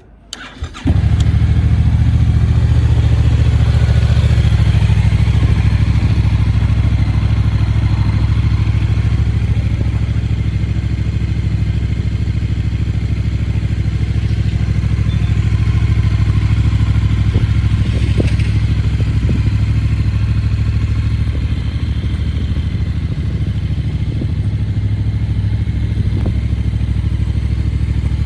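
Yamaha Tracer 7's 689 cc parallel-twin engine starting under a second in, then idling steadily.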